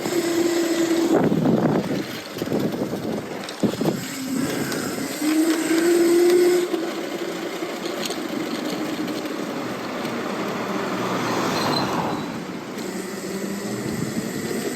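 Electric bike's Lightning Rods mid-drive motor whining in two short pulls, the second rising slightly in pitch, over steady road and traffic noise.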